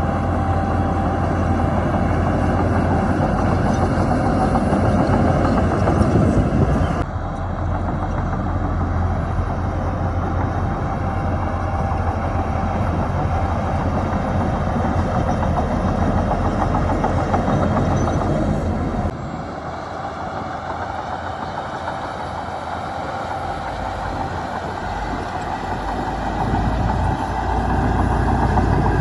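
Heavy diesel engines of earthmoving machinery (dump trucks and a bulldozer) running steadily with a deep rumble. The sound changes abruptly about 7 seconds in and again about 19 seconds in.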